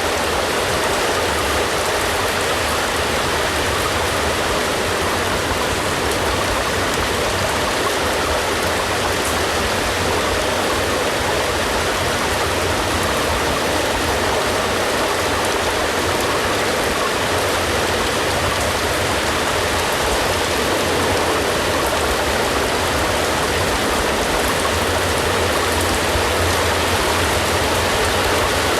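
Steady, continuous heavy rain, an even unbroken hiss of falling water with no distinct drops or other sounds standing out.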